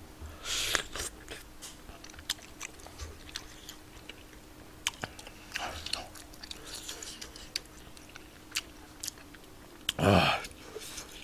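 Close-miked chewing and biting of spicy tteokbokki, with many short wet clicks and smacks. A louder short noise that falls in pitch comes about ten seconds in, over a faint steady hum.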